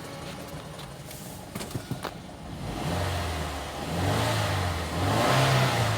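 Mazda CX-7 2.3-litre turbocharged four-cylinder engine idling, with a few sharp clicks, then revved up twice. This is a running test of a used engine.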